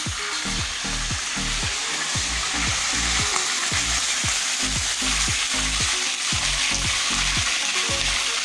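Chicken pieces shallow-frying in hot oil in a pan: a steady sizzle that starts suddenly as the chicken goes in. Background music with a regular low beat plays underneath.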